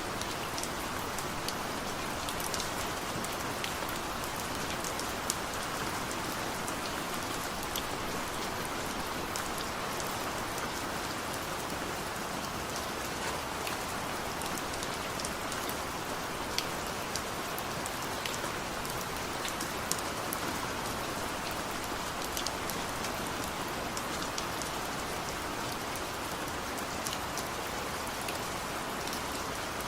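Steady rain falling, an even hiss with scattered sharp drip ticks of individual drops striking a surface.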